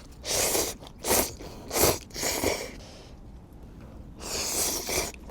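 A person slurping instant ramyeon noodles: a series of about five short, airy slurps, the last one longer.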